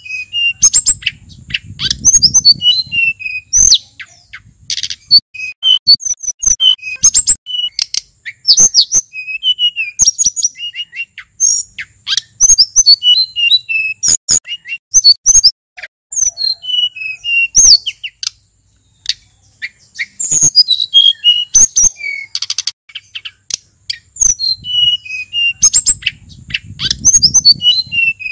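Male sulingan gunung songbird singing a long, varied song of quick high whistled and slurred notes, phrase after phrase with only brief gaps. A low rumble sits under the song twice, near the start and near the end.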